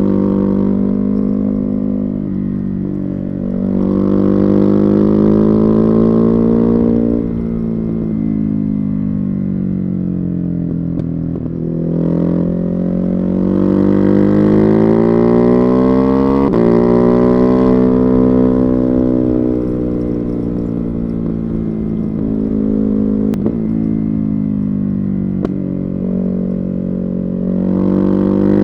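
Ducati Hypermotard 950's Testastretta 11° V-twin through a Termignoni exhaust, heard from on board while riding: it pulls up through the revs, eases off and picks up again several times, its pitch rising and falling over several seconds each time, with a hiss that grows as the speed climbs.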